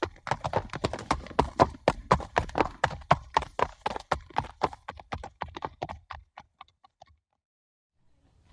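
Horse hooves clopping quickly on hard ground, about five hoofbeats a second, fading away and stopping about seven seconds in.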